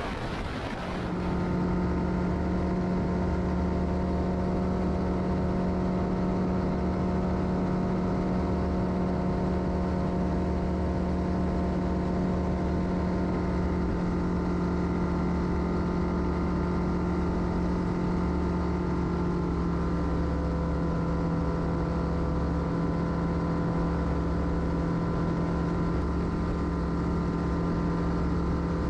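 Light single-engine airplane's engine and propeller droning steadily in cruise, with a slight drop in pitch past the middle. A brief rush of wind-like noise comes before the drone in the first second.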